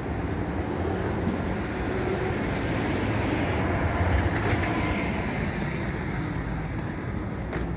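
A large vehicle passing: a steady low rumble with a hiss that swells through the middle and then eases off.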